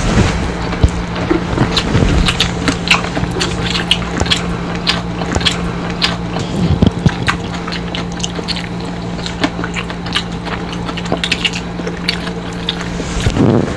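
Close-up chewing and crunching of crispy fried tilapia eaten by hand, with many sharp crackles scattered throughout. A steady low hum runs underneath.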